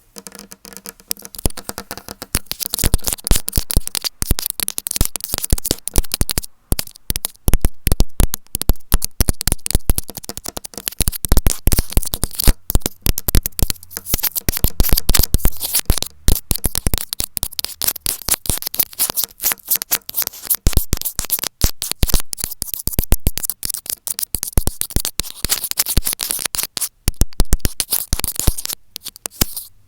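Earphone microphone handled vigorously right at the mic: dense, fast scratching and clicking.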